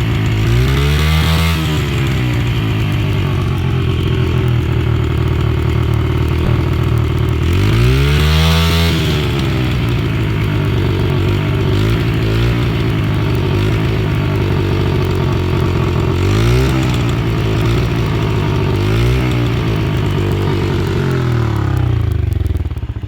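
Honda CRF70 single-cylinder four-stroke dirt bike engine with a modified exhaust, revved hard twice and then blipped several more times between idling, before it cuts off near the end.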